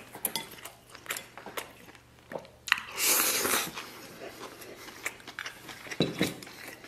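Close-miked chewing of a mouthful of rice and braised pork belly, with wet smacks and small clicks, and chopsticks clicking against the metal bowl. A loud half-second rush of air comes about three seconds in.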